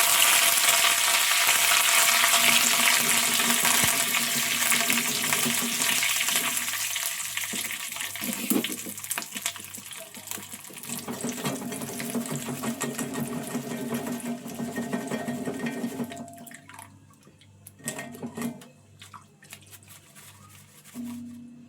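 Poha (flattened rice) sizzling loudly in hot oil as it deep-fries, the hiss slowly dying down until it has mostly faded about three-quarters of the way through.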